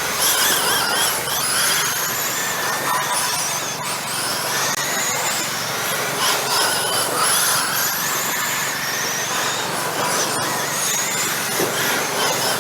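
Several radio-controlled racing trucks running laps together, their motors whining in high, overlapping rising glides again and again as they accelerate out of the corners.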